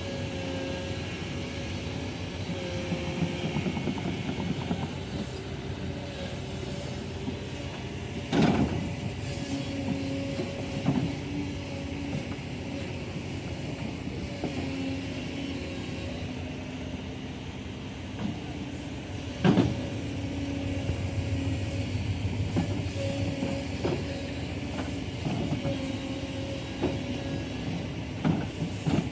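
Heavy diesel machinery running steadily, with two loud sharp knocks about eight and twenty seconds in and lighter knocks between.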